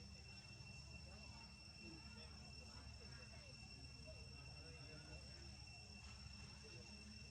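Near silence: a faint, steady high-pitched whine over a low hum, unchanging throughout.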